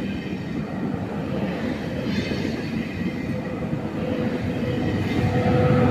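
Train running on the track, its rumble growing louder, with a steady whine coming in near the end.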